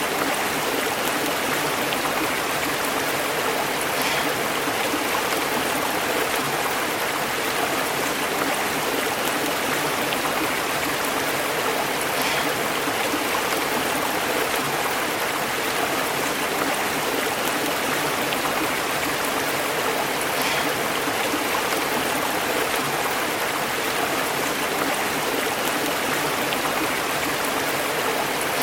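Stream burbling and bubbling steadily as it flows over rocks.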